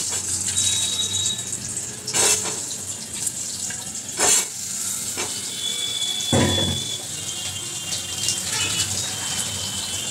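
Potato pieces sizzling in hot oil in a small kadai, a steady hiss, with a few sharp knocks from the pan or a utensil about two, four and six seconds in.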